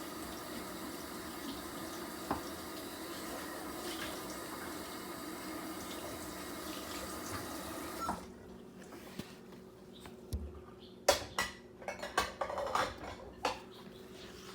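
Kitchen tap running steadily, turned off abruptly about eight seconds in, followed by a few sharp clinks and knocks of dishes being handled.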